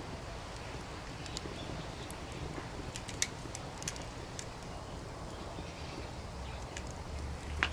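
Wood fire crackling, with scattered sharp pops, the loudest about three seconds in and near the end, over a steady low background rumble.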